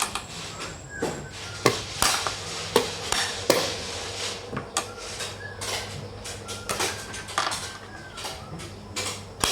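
Xiangqi pieces clacking against the board and each other, a string of sharp knocks at irregular intervals over a steady low hum.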